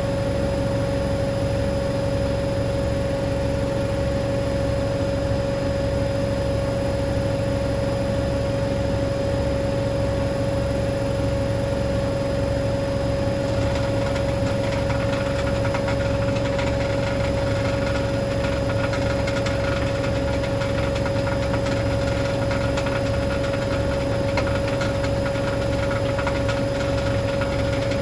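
Hoover DynamicNext washing machine running on a spin cycle: a steady motor whine over a low, regular pulsing from the turning drum. About halfway through, a fine rattling hiss joins in.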